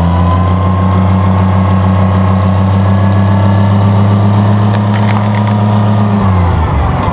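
1966 Oliver 1650 tractor's gasoline engine running steadily, then throttled back so its speed drops about six seconds in.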